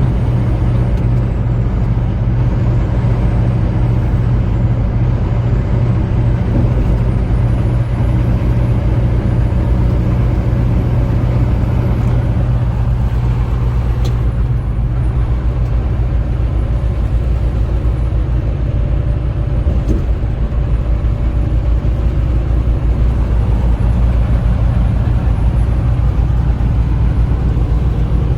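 Tractor-trailer's diesel engine and road noise, a steady low drone while driving, with a single faint click about halfway through.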